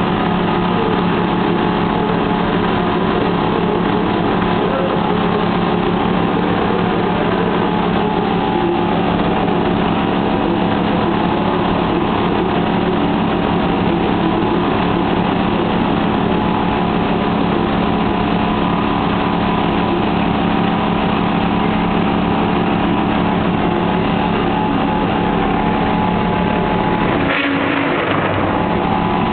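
A motor running steadily with an even hum and hiss, briefly disturbed by a click near the end.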